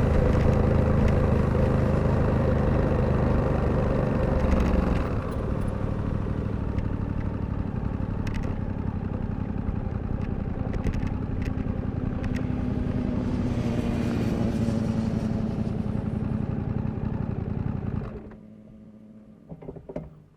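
Suzuki V-Strom 800DE's parallel-twin engine running, easing off to a lower, quieter steady run about a quarter of the way in, then shut off suddenly near the end, leaving a few faint clicks.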